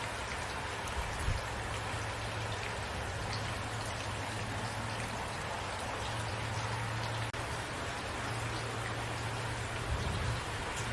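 Steady rain falling, an even hiss with individual drops ticking on a surface and a low hum underneath. Two soft low thumps come about a second in and near the end, and the sound cuts out for an instant a little past the middle.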